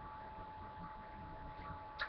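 Quiet room tone: a faint hiss with a thin, steady high-pitched whine and no other event.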